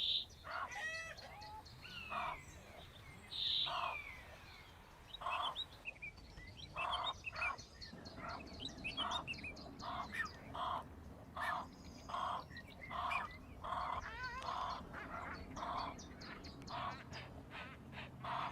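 Birds calling: a short call repeated about once or twice a second, with higher chirps over it.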